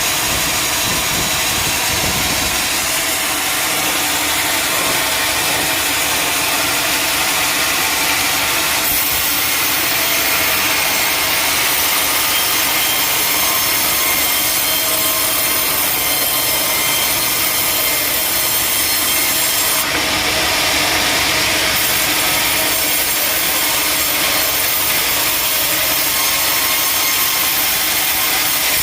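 Sawmill saw cutting through a teak log: a steady, loud, high-pitched sawing hiss with a machine hum under it, growing brighter about a third of the way in.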